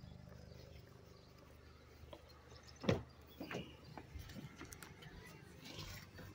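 Low steady hum of a car engine idling, weaker after the first second, with knocks and rubbing from a phone being handled inside the car; the loudest is a sharp thump about three seconds in.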